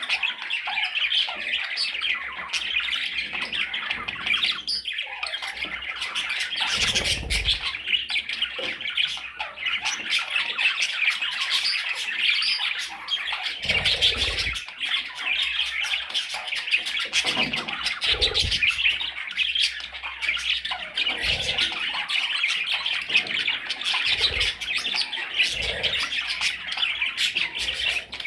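Small parrots chattering and squawking without a break, a dense stream of high-pitched calls, with a few dull low thumps here and there.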